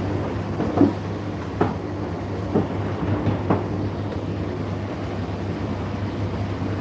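Indesit IDC8T3 condenser tumble dryer running mid-cycle: a steady motor and drum hum, with laundry thudding irregularly against the drum as it tumbles, four knocks in the first half.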